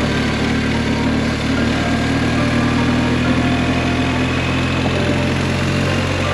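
BMW R 1250 GS Adventure's boxer-twin engine running at steady, unchanging revs.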